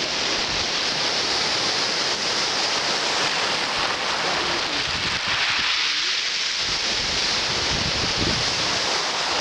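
Sea surf washing onto the beach in a steady hiss, with wind buffeting the microphone in low gusts that grow stronger about two-thirds of the way in.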